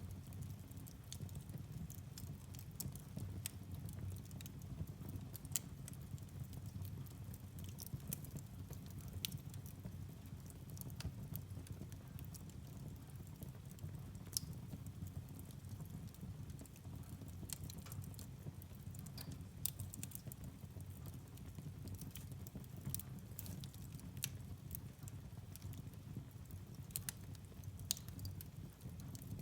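Firewood burning in a fireplace: a steady low rumble with sharp, irregular pops and crackles scattered throughout.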